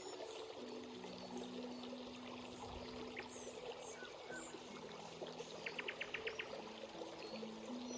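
Forest stream flowing and trickling, with small birds chirping high above the water and a quick run of about seven ticking calls about two-thirds through. Low held tones that step from note to note sit underneath.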